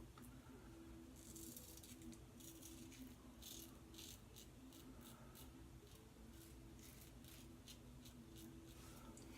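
Faint, quick scratching strokes of a double-edge safety razor scraping across lathered stubble, a dozen or so short strokes in a row, over a faint steady low hum.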